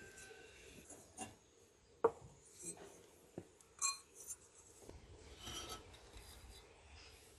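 Bisque-fired ceramic pieces being handled, clinking and knocking against each other and scraping on a hard surface. A sharp clink about two seconds in is the loudest, and there is a longer scrape a little past halfway.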